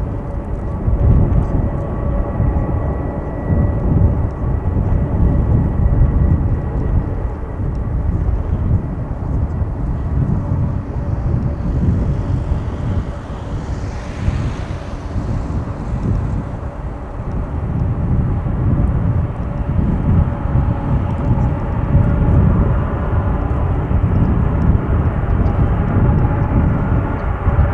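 Boeing 747-400 freighter's four jet engines running: a steady heavy rumble with a held whine. The sound swells and brightens between about twelve and sixteen seconds in.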